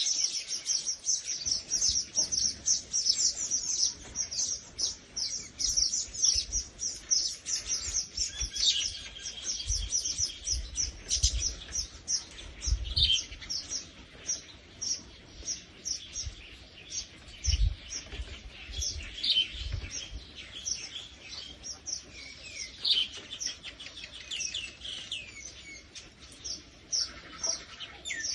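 Many birds chirping together, a dense, continuous chatter of short high chirps overlapping one another, with occasional low thumps underneath.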